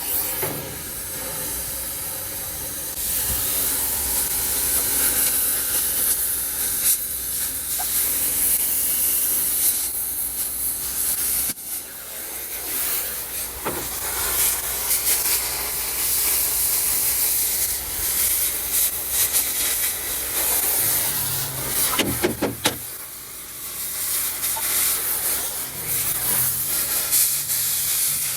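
Oxy-fuel cutting torch hissing steadily as it cuts metal, with scattered crackling and popping from the cut. The hiss drops briefly twice, once about halfway through and once about two-thirds of the way in.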